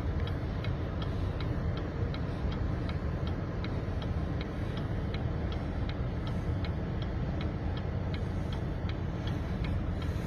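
A steady low vehicle rumble with a light, even ticking on top, about three ticks a second.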